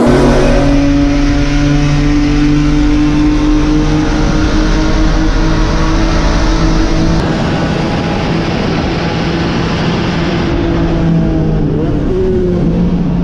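Corvair race car's air-cooled flat-six engine running hard at high, steady revs, its pitch easing slightly downward, over constant wind and road noise.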